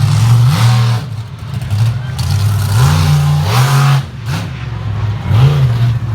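Bigfoot monster truck engine revving in repeated blips, its pitch climbing and falling again several times.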